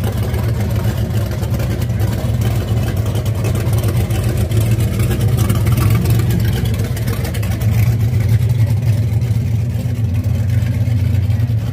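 Early-1960s Ford Falcon sedan's engine running at low speed as the car pulls away slowly, a steady low exhaust rumble.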